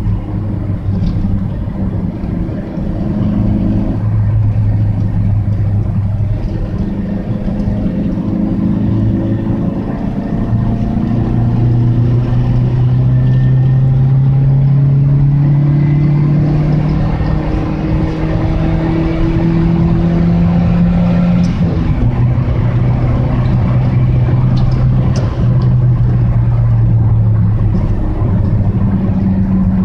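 Daihatsu Sirion's engine running through an aftermarket Tanabe muffler, a loud, steady exhaust drone. Its pitch climbs slowly and changes in steps several times.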